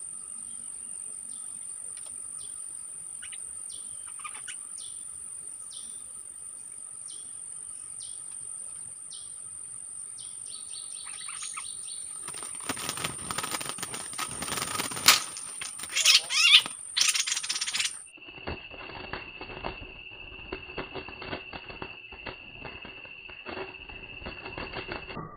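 Bulbuls at a bamboo trap cage: a steady cicada-like insect drone and short falling chirps, then about 12 s in a loud flurry of wing flapping and scuffling against the cage lasting some six seconds as a wild bulbul attacks the caged decoy. From about 18 s the sound turns lower-pitched and duller, a slowed-down replay.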